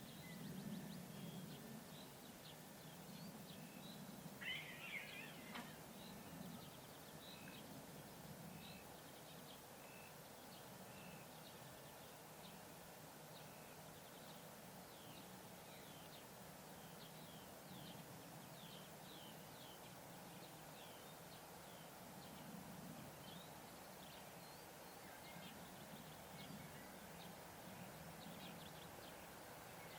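Near silence with faint birdsong: many short high chirps, a brighter trill about four to five seconds in, over a faint low steady hum.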